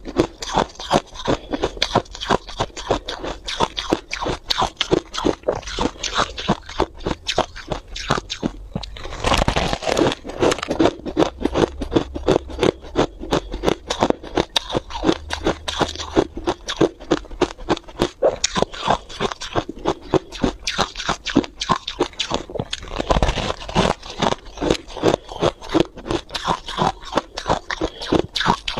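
Freezer frost being bitten and chewed, a fast run of close crunches throughout, with a louder bite about ten seconds in and another near twenty-three seconds.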